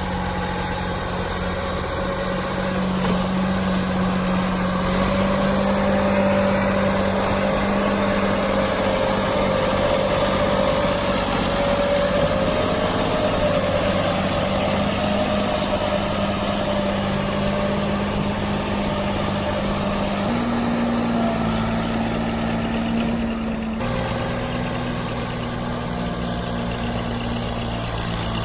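Tractor diesel engine running steadily under load while pulling a fully loaded trolley. Its pitch steps up slightly about five seconds in and again about twenty seconds in, then shifts once more a few seconds later.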